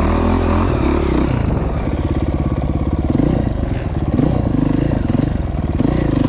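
Dirt bike engine running under throttle on a trail. Its pitch rises and falls repeatedly as it revs up and down.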